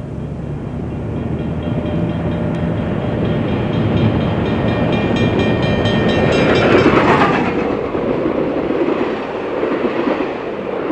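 Reading Company T1 4-8-4 steam locomotive No. 2102 running past with its excursion train. The sound builds to its loudest about seven seconds in, where a tone falls in pitch, then the cars roll by.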